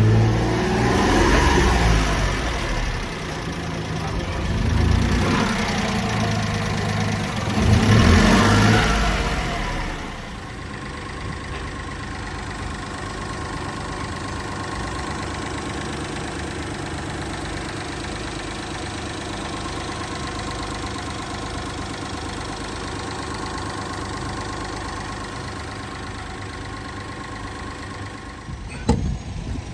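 Honda Acty kei truck's small three-cylinder engine revved up three times, then settling into a steady idle. A sharp knock near the end.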